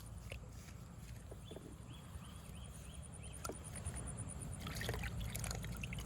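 Water trickling and sloshing with light handling clicks, growing busier in the last second and a half. A run of about six short chirps sounds midway.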